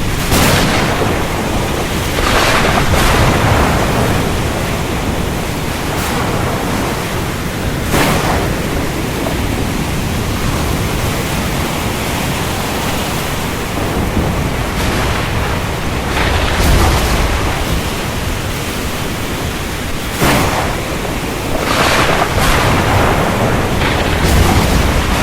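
Steady heavy rain with a thunderstorm overhead: about ten sharp thunder cracks scattered through, with low rumbles swelling several times.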